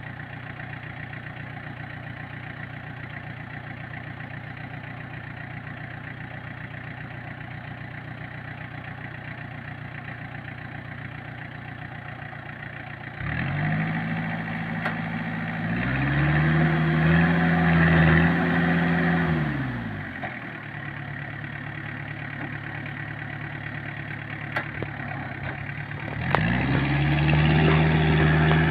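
Logging truck's diesel engine idling steadily, then revving up about thirteen seconds in, climbing in pitch to a peak and dropping back to idle a few seconds later. It revs up again near the end and holds the higher note.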